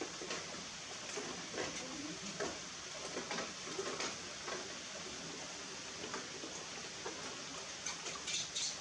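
Steady rain hiss with scattered irregular taps and clicks, and a brief rustle near the end.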